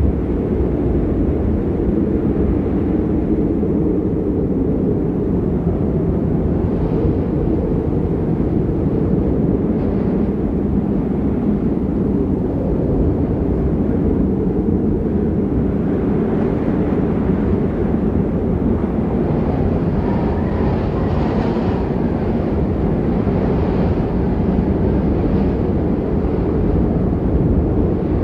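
A steady low rumbling noise, with a little more hiss higher up about two-thirds of the way through.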